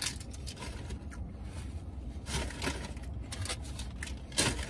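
A man chewing a mouthful of burger, with short mouth and rustling noises coming in bursts, the loudest near the end. A low steady hum runs underneath.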